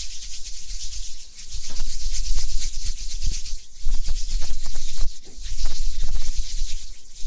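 Close-up ASMR trigger sounds on a stereo microphone: a steady, grainy high hiss full of tiny crackles, like rubbing or trickling, with low handling rumble that swells and fades several times.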